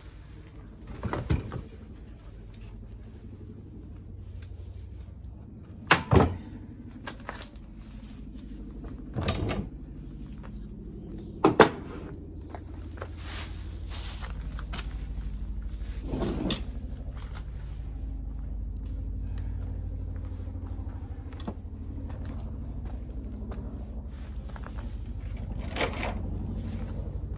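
Scattered sharp knocks and clinks of hand tools and metal engine parts being handled and set down while a scooter engine is stripped, about seven over the stretch, the loudest two close together. A steady low hum runs underneath and grows a little louder partway through.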